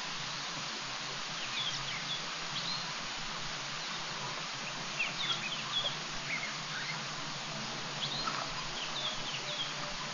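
Small birds chirping in three short clusters over a steady hiss.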